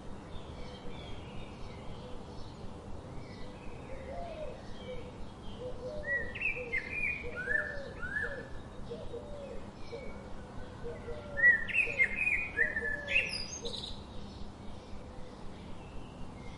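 Birds chirping: a run of short, downward-sliding chirps that comes in two louder bursts, about six seconds in and again about eleven seconds in. Under them runs a lower call repeated a few times a second.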